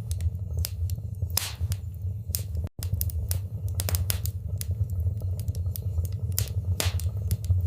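Fire burning in a fireplace: irregular sharp crackles and pops over a steady low rumble of the flames. The sound cuts out for an instant a little under three seconds in.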